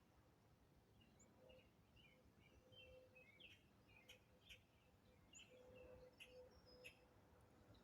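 Faint chirping and twittering of small birds in quick, scattered short calls, over a faint steady hum.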